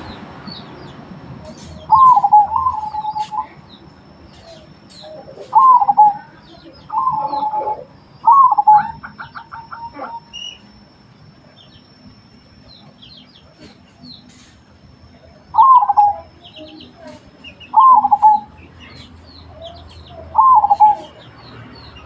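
Zebra doves (perkutut) cooing: about eight short coos near 1 kHz, coming irregularly a second or a few seconds apart. Faint, quick high chirps of small birds sound between them.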